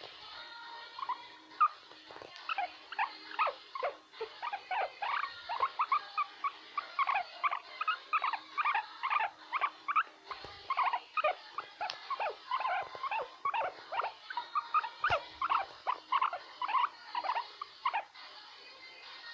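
Guinea pig making its "krrrr" sounds: a rapid run of short calls, several a second, starting about two seconds in and tailing off near the end.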